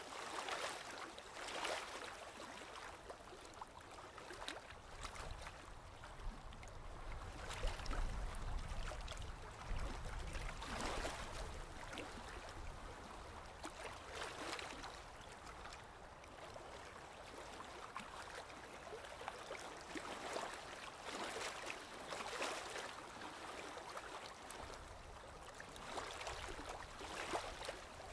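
Small sea waves lapping and splashing, a fairly quiet wash broken every second or two by a splash, with a low rumble of heavier water around a quarter of the way in.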